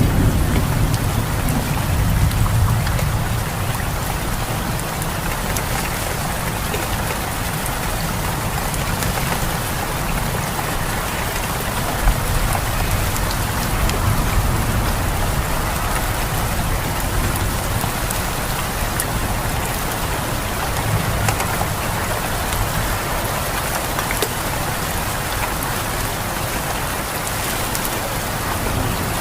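Steady rainstorm: an even hiss of rain with scattered sharp drop ticks, over a low rumble that is strongest in the first few seconds.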